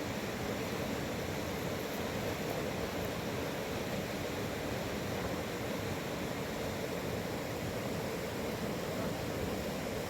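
Fast-flowing river water rushing, a steady, unchanging sound.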